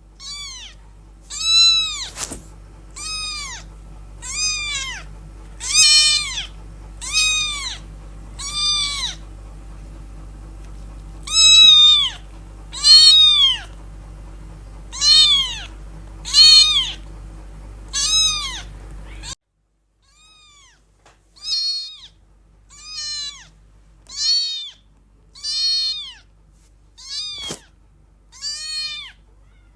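Very young kitten meowing over and over, about one high-pitched call a second, each rising then falling in pitch: a kitten calling for its mother.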